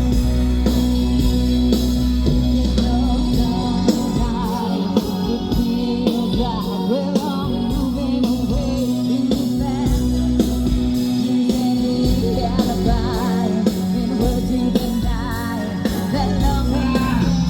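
Live rock band playing a song: electric guitar, bass and drums with evenly spaced cymbal strokes, and a voice singing over them.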